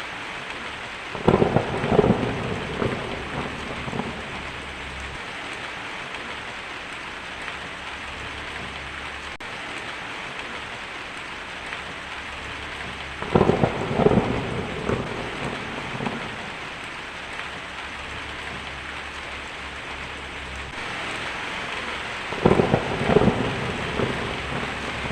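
Steady heavy rain hissing throughout, with three short, loud, crackling thunderclaps: about a second in, midway, and near the end.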